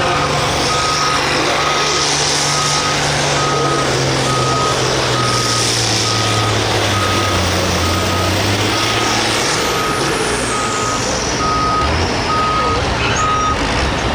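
Vehicle reversing alarm beeping steadily, about two beeps a second, over a running engine. The beeping stops near the end.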